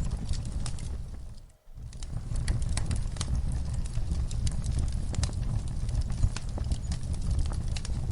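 Wood fire crackling and popping in a fireplace, with a steady low rumble of burning under many sharp pops. The sound dips almost to silence for a moment about a second and a half in, then comes back.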